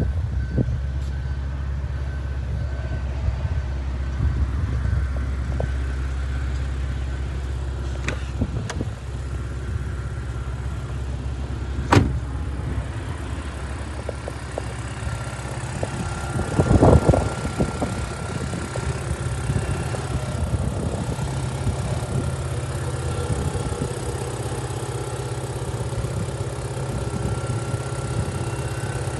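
Mitsubishi Carisma's 1.8-litre 16-valve four-cylinder GDI petrol engine idling steadily. A single sharp click comes about twelve seconds in, and a brief louder rush of noise a few seconds later.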